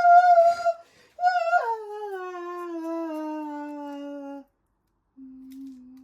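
A person's wordless voice: a high, wavering note that slides down into a long held low hum, then a shorter low hum near the end.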